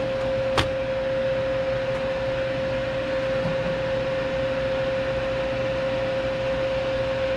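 Steady fan-like machine hum with a constant mid-pitched whine under it, and one sharp click about half a second in.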